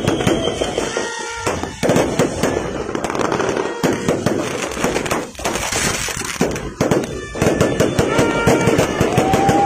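Fireworks going off in quick succession: a dense run of bangs and crackles, with a thin whistle starting near the end.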